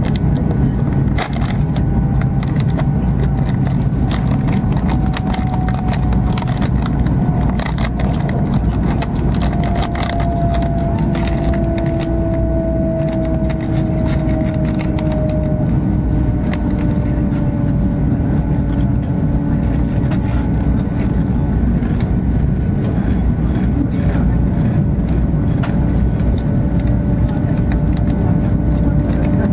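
Cabin noise of an E2 series Shinkansen running at speed: a steady rumble and rush, with a faint whine that slowly falls in pitch and scattered light clicks.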